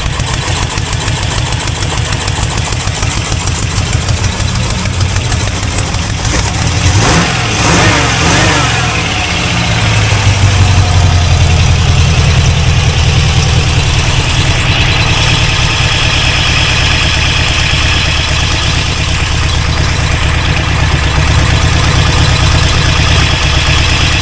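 C4 Corvette's freshly rebuilt 350 small-block V8 running steadily at idle with no rod knock. About seven seconds in there is a brief disturbance in the sound, after which the engine runs a little louder and deeper.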